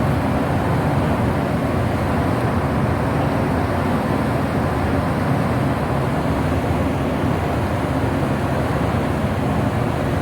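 Steady low rumble of a ship's engine and machinery running at an even level while the ship manoeuvres, with some hiss on top.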